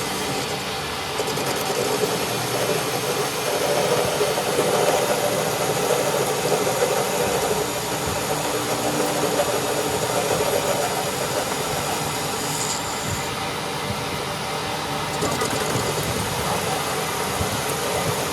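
Workshop machinery running steadily: a continuous mechanical noise with small swells in level.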